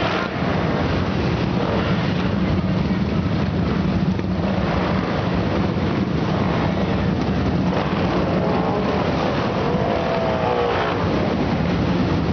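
Several Yamaha XT single-cylinder trail-bike engines running close by: a steady, loud din of idling and riding bikes.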